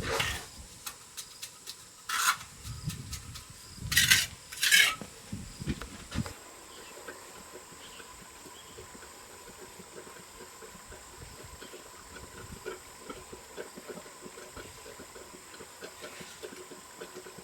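Steel trowel scraping and working cement mortar on bricks: four loud scrapes in the first five seconds, then only faint small scrapes and taps.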